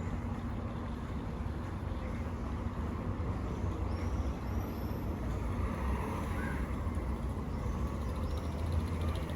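City street ambience: a steady low rumble of road traffic going by, with a few faint high chirps now and then.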